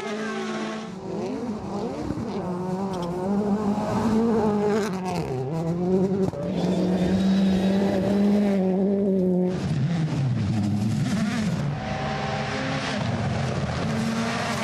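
Rally car engine at high revs, its pitch rising and dropping again and again as the driver works the throttle and gears.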